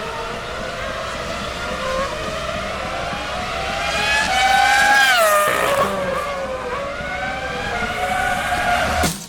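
Racing motorcycle engines at high revs on the circuit, their pitch rising and falling through gear changes; one bike passes close about five seconds in, its pitch climbing and then dropping sharply as it goes by.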